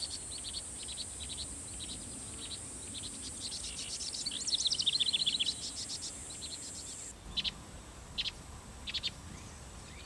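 Quick, high chirps of small birds, thickest in a burst about halfway through, with a few single chirps near the end. Under them runs a steady high-pitched whine that cuts off about seven seconds in.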